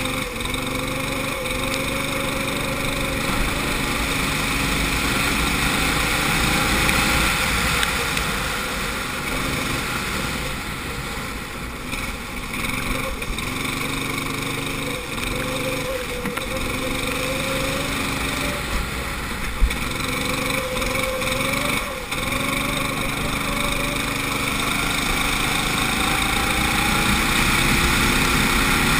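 Kart engine running hard, its pitch climbing steadily and then dropping sharply each time the throttle is lifted for a corner, several times over. Steady wind and road noise over the onboard microphone, with one short knock about twenty seconds in.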